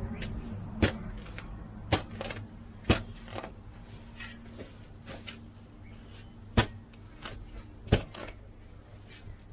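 Hand-dug post hole: a digging tool striking the ground in sharp, irregular blows, some a second or more apart.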